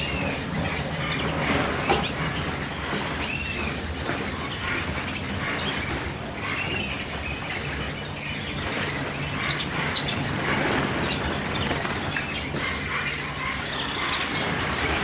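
Many small cage birds chirping and calling at once, a busy overlapping chorus of short chirps, over a steady low hum.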